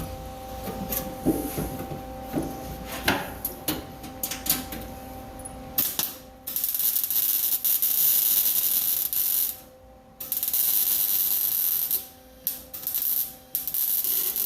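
Arc welding on sheet-steel floor pan: a few clicks and knocks, then a long crackling weld pass about halfway through, a second shorter pass, and several short tack bursts near the end, over a faint steady hum.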